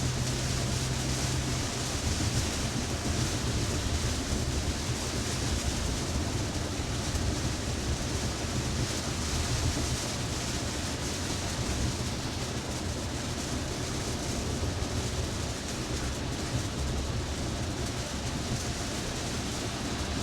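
Heavy rain and tyre spray on a wet highway, heard inside the cabin of a moving Tesla: a steady hiss over a low road rumble.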